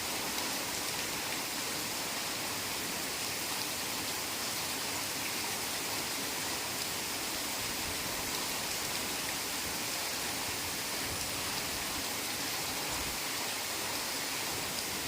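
Heavy rain falling steadily, an even hiss of downpour with no single drops standing out.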